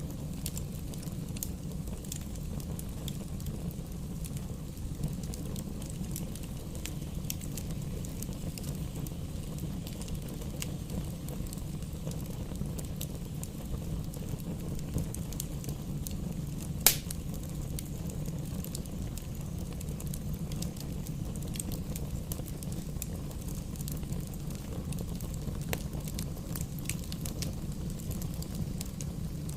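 Fire burning in a fireplace: a steady low rumble with scattered small crackles, and one sharp, louder pop a little past halfway.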